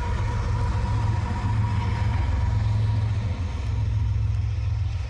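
Freight train rolling past: a steady low rumble, with a faint high whine that fades out about three seconds in.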